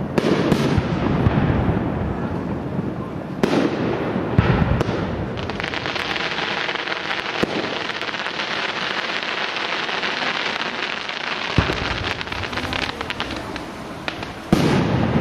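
Aerial firework shells bursting with heavy booms in the first few seconds, followed by a long spell of dense crackling with scattered sharper pops. Another loud boom comes near the end.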